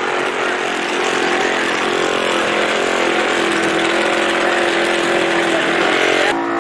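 Drag racing engine held at high revs, running loud and fairly steady with small rises and falls in pitch; the sound changes abruptly near the end.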